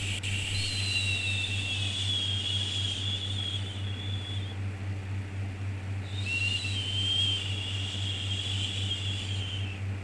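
Long drawn-out 'shhh' shushing sound for soothing a baby, each shush lasting about four seconds with a short pause between, over a steady low hum. One shush fades out around halfway and the next starts about a second and a half later.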